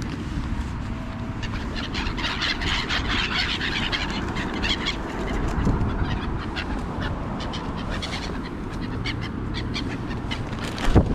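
Birds calling, a dense run of short high chirps and calls over a low steady rumble, with a louder sharp sound near the end.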